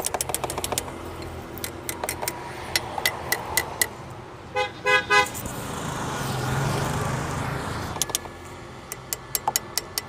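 A car horn gives three quick short toots about halfway through. Rapid sharp clicking comes before and after it.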